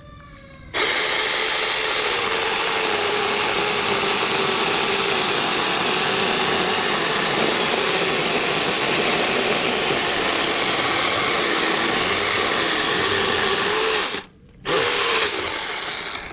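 Battery-powered mini chainsaw's electric motor running steadily with a wavering whine, cutting wood. It cuts out briefly near the end and starts again.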